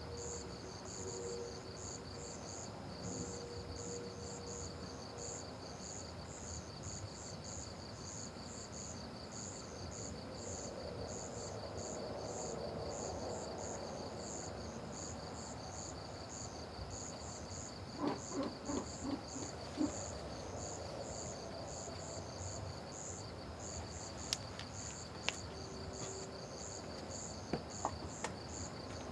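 Crickets chirping steadily in a night chorus, two pulsing trills at different pitches. About eighteen seconds in, a brief run of half a dozen low pulsed calls, and a few sharp clicks near the end.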